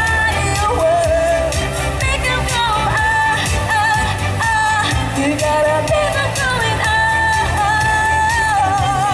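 A singer's voice holding long, wavering notes over a pop backing track with a steady beat.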